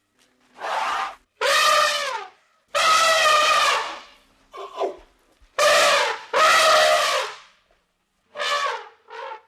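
A series of animal calls, about eight of them, most under a second long, clear and pitched, several sliding down in pitch at their ends.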